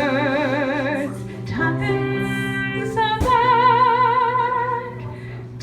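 A woman singing a slow musical-theatre ballad in long held notes with vibrato, over sustained instrumental accompaniment. A note breaks off about a second and a half in, and the next starts about half a second later.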